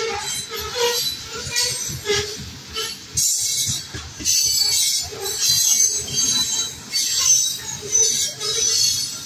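Covered hopper cars of a freight grain train rolling past, their steel wheels rumbling and clacking over the rails, with a high-pitched wheel squeal that comes and goes.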